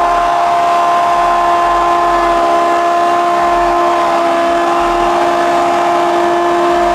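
A loud air horn of the train-horn kind, sounding one long, steady, unbroken blast made of several held tones.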